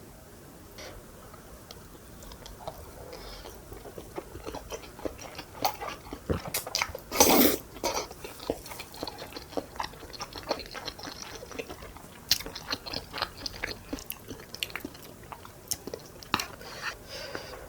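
Close-miked eating: chewing and biting mouth sounds with many wet clicks and occasional crunches, and one louder burst about seven seconds in.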